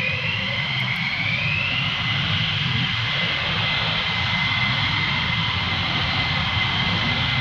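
Military jet engine running with a steady high whine over a rumble; one tone in the whine rises in pitch over the first couple of seconds, then holds.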